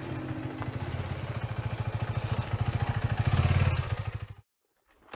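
KTM 390 Adventure's single-cylinder engine running with an even pulsing beat. It grows louder about three seconds in, then cuts off abruptly about a second later.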